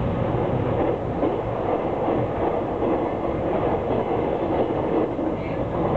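Passenger train running at speed, heard from inside the carriage: a steady rumble of wheels on the rails and running noise, with no breaks.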